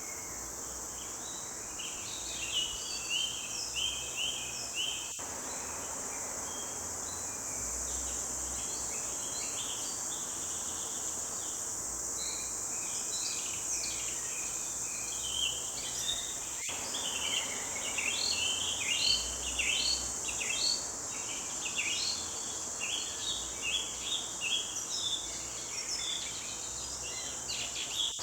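Forest birds chirping and singing in many short, overlapping phrases, busier in the second half, over a steady high-pitched insect drone.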